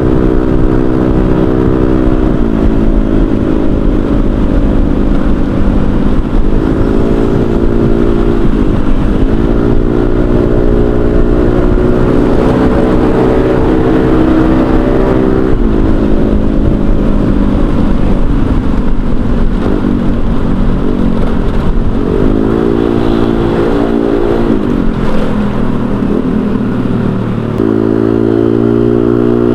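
Honda Vario 125 scooter's single-cylinder engine running through an aftermarket racing exhaust while riding, its note rising and falling several times as the throttle is opened and eased off.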